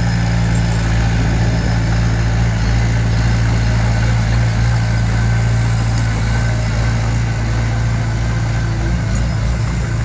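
Heavy-equipment diesel engine running steadily at a low, even speed, with a strong low hum.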